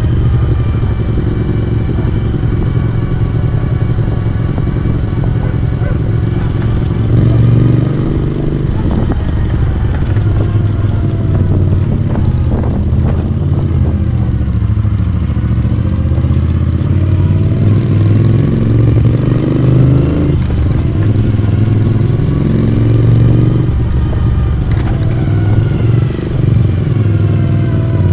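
Moto Guzzi V35's transverse V-twin pulling a motorcycle along, its exhaust note rising and falling again and again as the revs change, with brief dips where the throttle closes.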